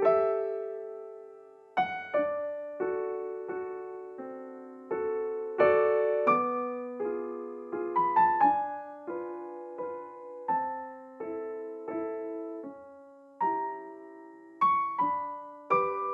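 Soft, slow background piano music: single notes and gentle chords struck one to two a second, each left to ring and fade.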